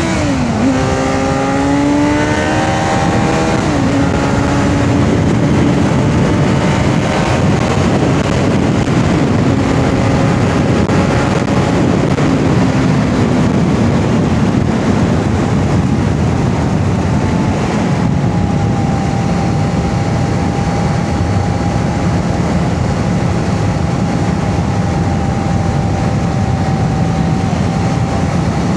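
Kawasaki Z900's inline-four engine accelerating hard, its pitch climbing and dropping back at two upshifts in the first four seconds, then holding a steady cruising note. Heavy wind rush covers it at highway speed.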